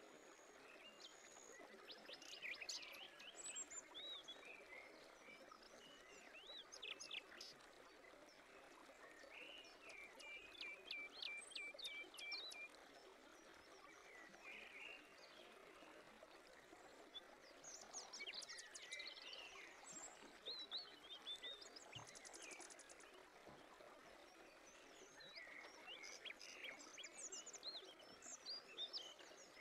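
Faint birdsong: several birds chirping and trilling in bouts, one giving a quick series of chips, over a soft steady background hiss.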